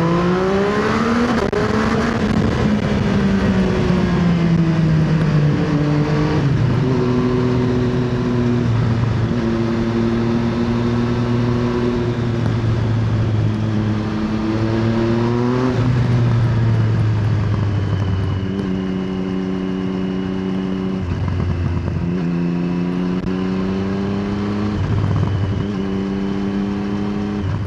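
Triumph Street Triple 675 RX inline three-cylinder engine through an Arrow exhaust, ridden on the road. The revs climb at first and then fall away. The pitch then jumps in sudden steps several times as the gears change, and near the end it settles to steadier running with a few short dips.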